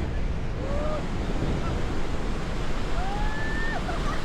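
Steady wind and breaking surf on a beach, with wind noise on the microphone. Faint distant voices call out over it, one held call about three seconds in.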